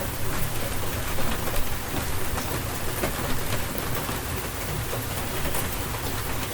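Steady rainstorm: rain falling, with many fine drop ticks, over a continuous low rumble.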